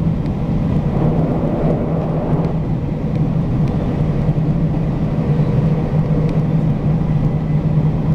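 Local electric train running at speed, a steady rumble of the motors and wheels on the rails, heard from inside the passenger car.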